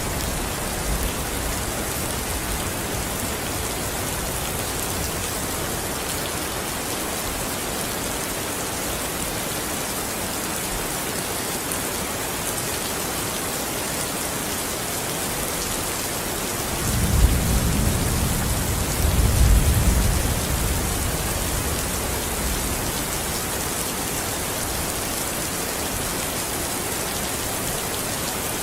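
Steady rain falling, an even hiss, with a low rumble of thunder swelling about two-thirds of the way through.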